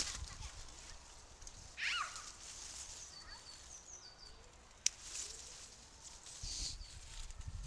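Woodland birds calling: a loud falling call about two seconds in, followed by a run of high, thin notes. A single sharp click comes about five seconds in, and a low rumble of wind or handling noise rises near the end.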